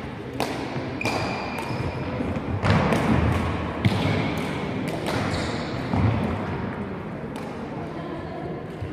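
Badminton rally: rackets striking the shuttlecock with a sharp click about once a second, along with a few short squeaks of shoes on the court floor.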